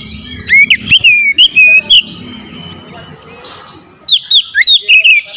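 Oriental magpie-robin (kacer) singing loud, sharp whistled notes and slurs in two bursts, the second near the end. This is the full-power song that kacer keepers use to provoke rival males.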